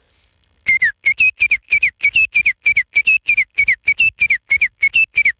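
A man whistling an imitation of a pair of titar (partridges) calling: rapid short whistled notes, about four to five a second, each dipping at the end and alternating between two slightly different pitches, starting just under a second in.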